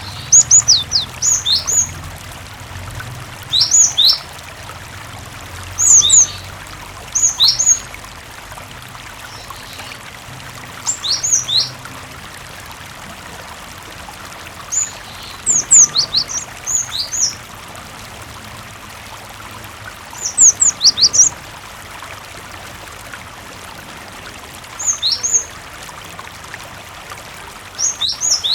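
Cinereous tit (gelatik batu) singing short bursts of quick, high, sharply down-slurred notes every few seconds, over a steady rush of running water.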